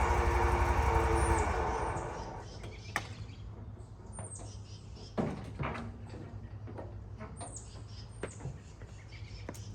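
Exmark Laser Z zero-turn mower's engine running, its pitch sinking as it winds down and stops about two seconds in. After it, a few sharp clicks and knocks and some short high bird chirps.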